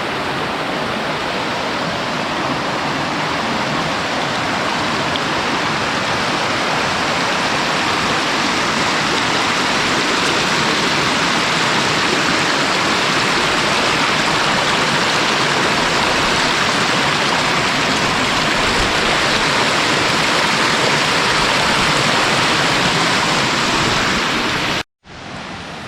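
Loud, steady rush of fast-flowing monsoon stream water. It cuts out abruptly near the end, and a quieter sound follows.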